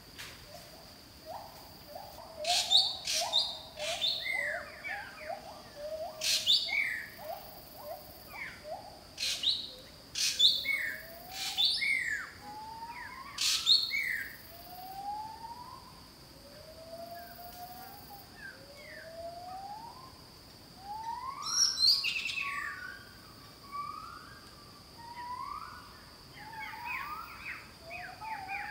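Several forest birds calling: runs of short rising notes repeated many times, broken by loud, sharp, high calls, over a steady high-pitched insect drone.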